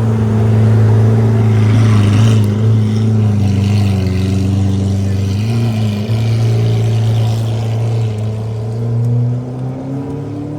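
Car engine running close by with a deep, steady note whose pitch wavers slightly, with a brief dip about six seconds in and easing off near the end.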